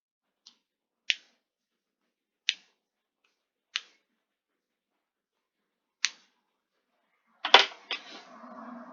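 Five sharp single clicks, one to two seconds apart, then a loud knock near the end followed by a jumble of smaller knocks and rustling.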